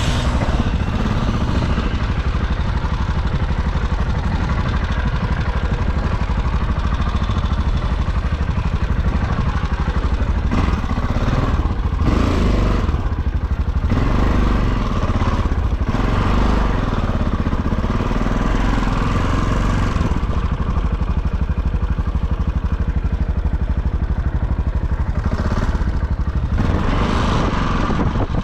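Off-road motorcycle engine running steadily as the bike is ridden, with a few brief louder swells.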